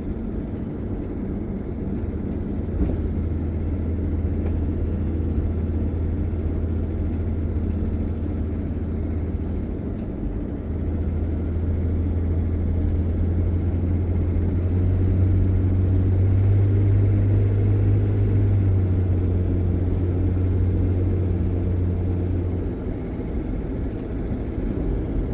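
A motor vehicle driving on a city street: a steady low engine drone with road noise. The engine note swells and climbs a little in the middle, then eases off a few seconds before the end.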